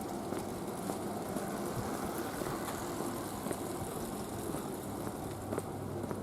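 City street ambience: a steady hum of road traffic, with a few faint footsteps on pavement.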